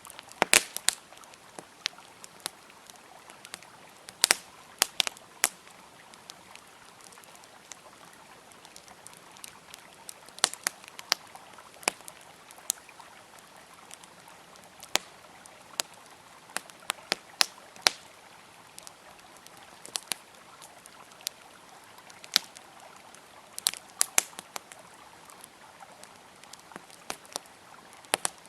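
Wood campfire crackling, with irregular sharp pops and snaps, some in quick clusters, over the steady rush of a flowing river.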